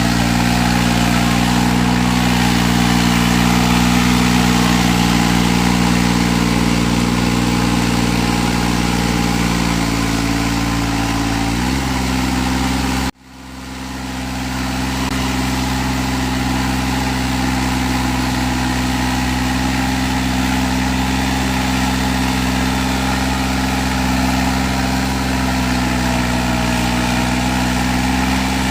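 Mahindra Arjun 605 tractor's diesel engine running steadily while pulling a loaded trolley. About twelve seconds in the engine note drops slightly; a moment later the sound cuts out abruptly, then comes back over a second or two and runs on steadily.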